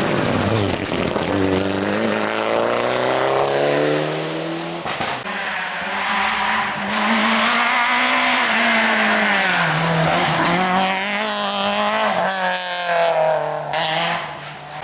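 Rally car engine at full throttle, its pitch climbing steeply, dropping briefly about five seconds in, then rising and dipping again through the gears, with tyre squeal as the car slides through the stage.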